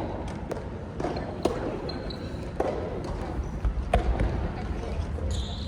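Sharp ball impacts from a doubles rally on an indoor court, one roughly every second, with a short high squeal near the end.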